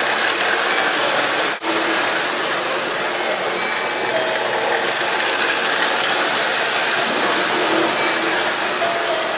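A train running with a steady mechanical rattle and hum; the sound drops out for an instant about a second and a half in.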